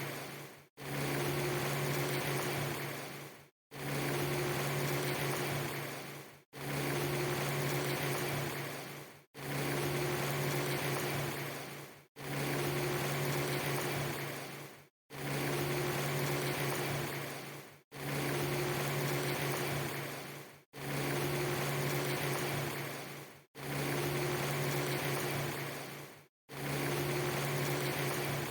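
A short clip of rain-ambience hiss with a steady low hum under it, looped: it fades and cuts to silence for a moment, then restarts, about every three seconds.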